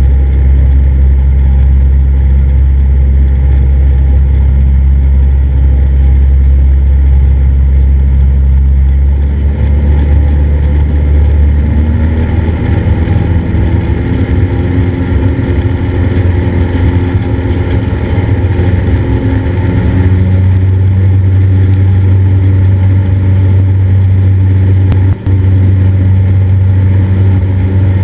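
A Cessna 172's piston engine and propeller droning steadily, heard from inside the cabin. The engine note changes about nine seconds in and again around twenty seconds in, and there is a brief dropout near the end.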